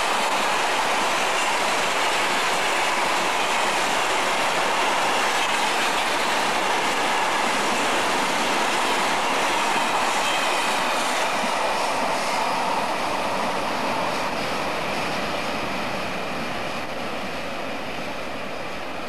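Freight train wagons rolling past on the rails: a steady rush of wheel noise with a faint squeal of wheels. It eases off over the last few seconds as the train draws away.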